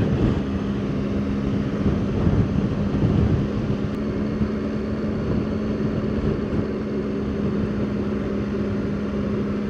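Motorcycle engine running at a steady cruising speed, its note held steady, under a constant rush of wind and road noise.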